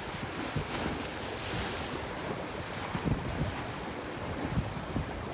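Sea surf washing on a beach, with a swell of hiss about one and a half seconds in, and wind buffeting the microphone in low gusts.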